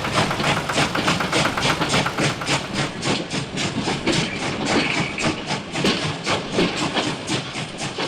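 Small engine running with an even, rapid chugging beat of about five or six knocks a second.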